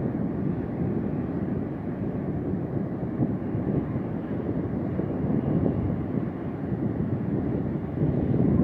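Big ocean waves breaking on a beach: a steady low rumble of surf, with wind buffeting the microphone.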